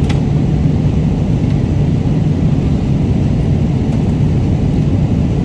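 Steady low rumble of an airliner's cabin in flight, with a faint click just after the start.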